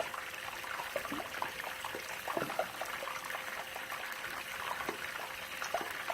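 Flour-dusted chicken pieces frying in hot oil: a steady sizzle with many small irregular crackles and pops.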